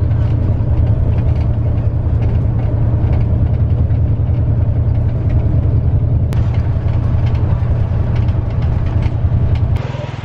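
Bus engine running with a loud, steady low rumble, which falls off sharply near the end.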